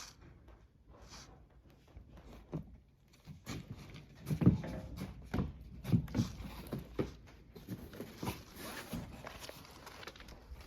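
A pet lion moving about and handling things, making a string of irregular dull thumps and knocks, the loudest about four and a half seconds in.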